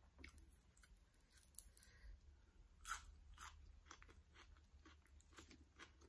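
Faint close-up chewing and crunching of crisp food in the mouth: irregular bites, the loudest crunch about three seconds in.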